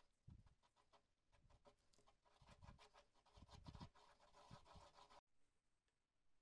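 Near silence with faint scratching and light irregular clicks. A sharp cut comes a little after five seconds, and it is quieter after it.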